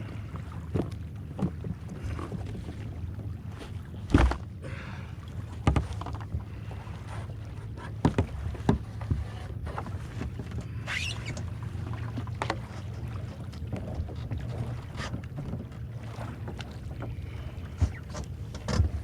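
Kayak paddling on calm lake water: paddle blades dipping and splashing at irregular intervals, a few louder knocks among them, over a steady low rumble.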